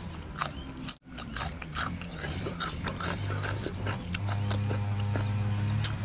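Close-up crunching and chewing of a bite of raw cucumber: a run of quick, irregular crisp clicks.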